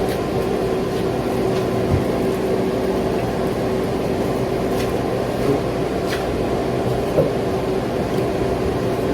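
Steady hum of a fan-driven kitchen appliance running at a constant pitch, with a few faint light clicks, typical of dishes or utensils being handled.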